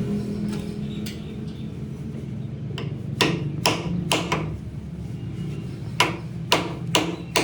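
Hammer blows, about two a second, in two runs of four strokes with a pause between them, over a steady low engine hum.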